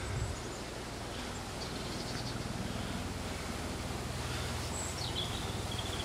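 Countryside ambience with a steady low rumble and birds calling. There are a few faint high chirps about two seconds in, and near the end a short falling whistle runs into a held high note.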